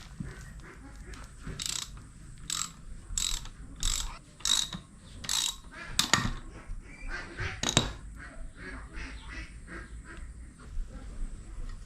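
Hand ratchet wrench being worked on engine bolts: a run of about eight short ratcheting strokes, roughly two a second, then two sharp metal knocks.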